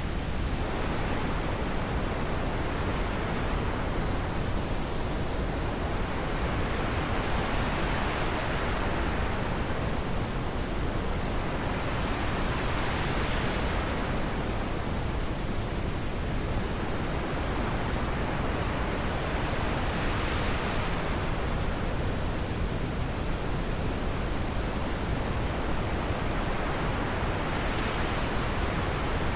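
Steady wind noise, an even hiss whose brighter, higher part slowly swells and fades in gusts about every seven seconds.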